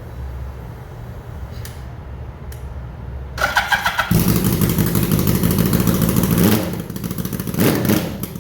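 Motorcycle engine being started: a brief burst of cranking about three seconds in, then it catches and runs loud for a couple of seconds, eases back, and gets a short blip of throttle near the end.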